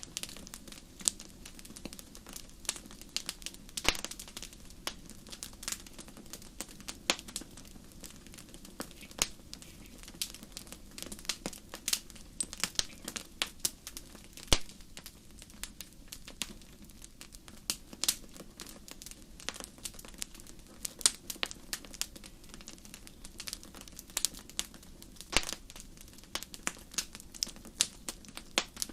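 Wood fire crackling in a fireplace: irregular sharp pops and snaps, several a second, over a low, steady background rush, with one louder snap about halfway through.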